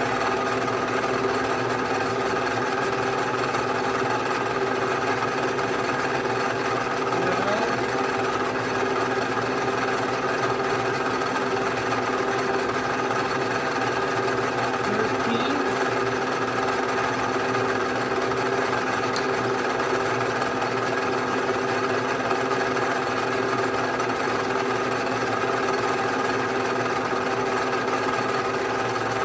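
Bridgeport-type milling machine running steadily, an even motor-and-drive hum made of many fixed tones.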